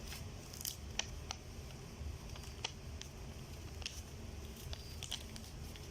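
Sheet of paper being folded and creased by hand: scattered soft crackles and taps over a low steady background hum.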